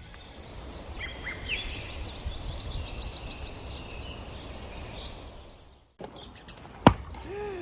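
Outdoor background with birds chirping in quick runs, then a single sharp knock about seven seconds in, an axe striking a hard oak log.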